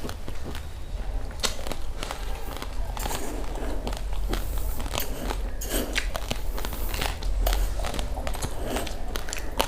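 Close-up crunching of raw, uncooked rice grains being chewed: many sharp, irregular cracks as the hard grains break between the teeth.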